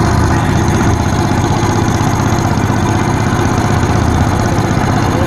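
Engine of a 1954 Caterpillar D9G crawler tractor running steadily at an even, low pitch during a pony-motor start after the fuel system was opened for a filter change.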